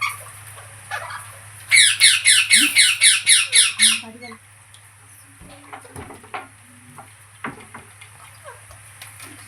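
Pet green parrot squawking: a fast run of about ten high-pitched calls, roughly four a second, lasting around two seconds, followed by softer scattered chirps.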